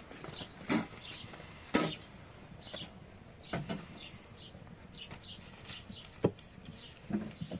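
Birds chirping in short repeated calls, with a few scattered sharp knocks.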